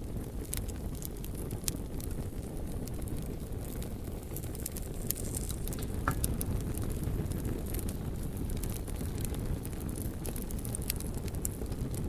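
Wood fire burning: a steady low rumble of flames with scattered sharp crackles and pops from the burning wood.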